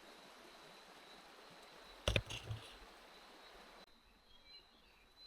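Faint steady rush of a stream, with one sharp knock about two seconds in and two softer knocks just after. Near the end the rush cuts out abruptly, leaving quieter background with a few faint high chirps.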